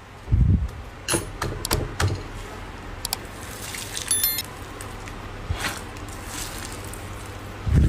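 Slime being pressed and squeezed by hand, with scattered sharp crackling clicks and a few soft low thuds.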